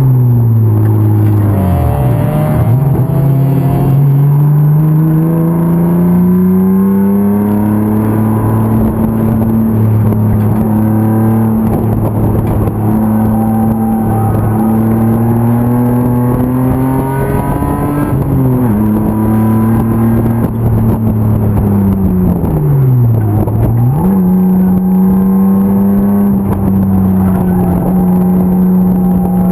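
BMW E36 325's M50 straight-six racing engine pulling hard on track. The pitch falls at the start as the driver lifts off, then climbs steadily and holds high, dips briefly about two-thirds of the way in, drops again near the three-quarter mark, and climbs sharply back to a steady high note.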